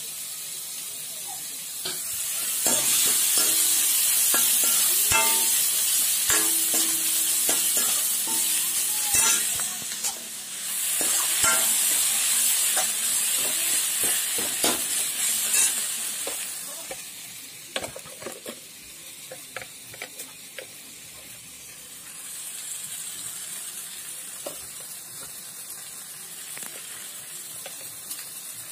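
Chopped onion and tomato sizzling in oil in an aluminium kadai, stirred with a spatula that scrapes and clicks against the pan. The sizzle is loudest from a couple of seconds in until about halfway, then quieter.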